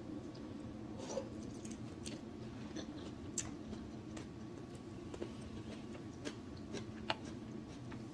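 Close-miked eating sounds: scattered sharp, wet mouth clicks and smacks of someone chewing food, over a steady low background hum.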